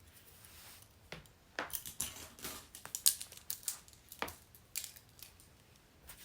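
Metal handcuffs being handled: a string of irregular light metallic clicks and small rattles, starting about a second in and thinning out near the end.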